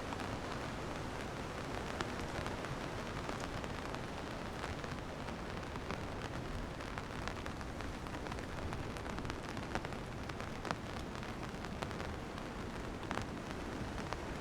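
Steady rain falling, an even hiss with many scattered sharp drop ticks close to the microphone.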